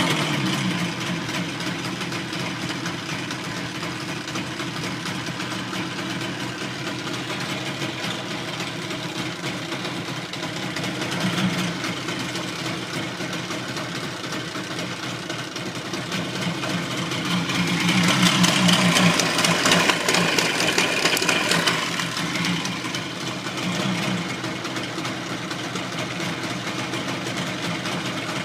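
Suzuki RG250E two-stroke motorcycle engine running cold just after starting, idling with the throttle opened a few times, longest from about two-thirds of the way in. The idle is a little low, which the owner thinks may be because the engine is not yet warm.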